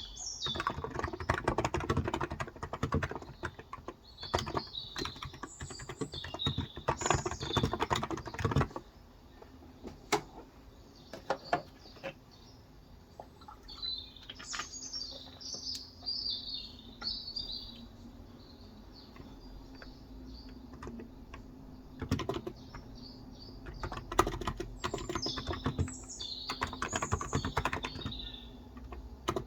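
Typing on a Cox Endeavor electrostatic-capacitive (non-contact) tenkeyless keyboard with 35 g keys: a rapid run of keystrokes, a long pause about 9 seconds in with only a few scattered key presses, then another fast run from about 22 seconds in. Small birds chirp in several short bursts at the same time.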